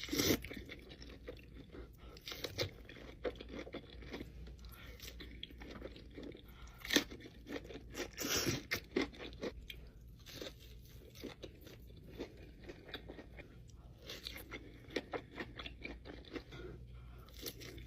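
Close-miked eating: crunchy bites and chewing, with irregular sharp crunches coming every second or so. The loudest are about seven seconds in and again around eight to nine seconds.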